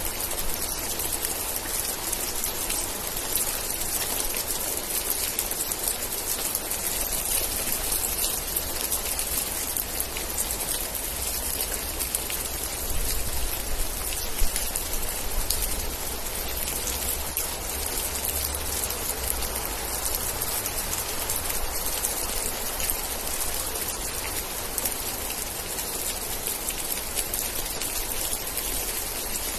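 Steady rain falling, with dense close raindrop patter over a constant hiss; a single sharper drop stands out about halfway through.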